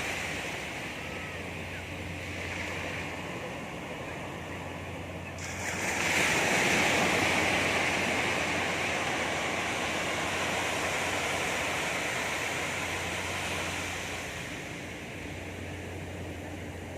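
Sea surf washing onto a beach, swelling into a louder wash about six seconds in and easing back after about eight seconds.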